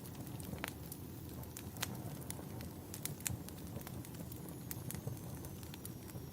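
Wood campfire burning: a steady low rumble of flames with irregular sharp crackles and pops, several a second. A faint high whistle, slowly falling in pitch, comes in about four seconds in.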